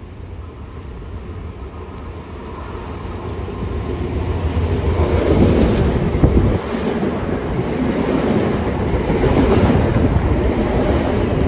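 Long Island Rail Road commuter train approaching on the tracks, its rolling noise growing steadily louder over the first half until it runs close by.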